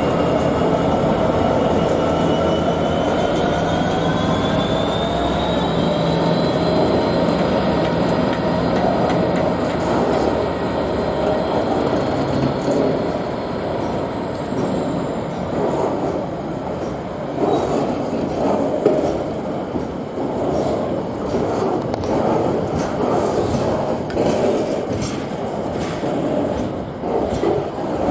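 A diesel freight train passing: the locomotive's engine runs with a rising whine over the first few seconds, then the wagons follow with an irregular clatter of wheels over the rail joints.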